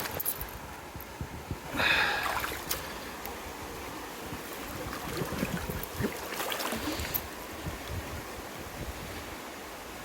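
Steady rush of river water, with scattered knocks and splashes and one brief louder sound about two seconds in.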